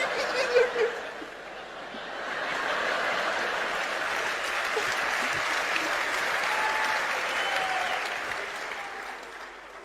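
Applause and clapping from a group that builds up, holds for several seconds and fades out near the end.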